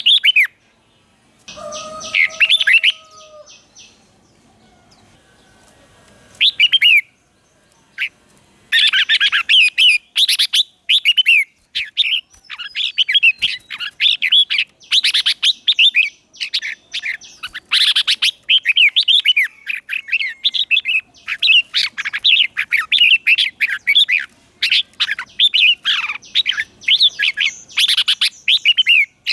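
Red-whiskered bulbul singing, sparse phrases of chirps and whistles at first, then a rapid, nearly continuous run of song from about nine seconds in. A short steady tone sounds about two seconds in.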